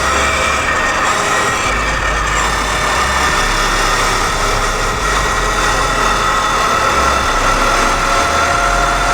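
Dirt bike ridden at high speed: wind rushes loudly over the microphone, and a steady motor whine rises slowly in pitch as the bike gathers speed.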